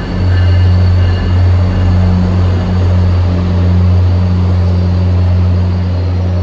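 MBTA commuter rail diesel locomotive and its passenger coaches passing at low speed along the platform, with a loud, steady low engine drone over the rumble of the wheels in an enclosed station.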